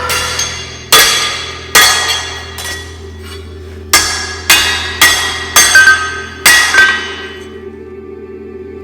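Blacksmith's hammer striking hot steel on an anvil, about ten ringing blows in uneven groups that stop about seven seconds in.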